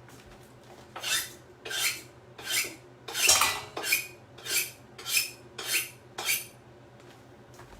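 A cutting board being scraped clean of leftover chopped vegetable bits: about nine rasping scrapes, roughly one every 0.7 s, the fourth longest and loudest.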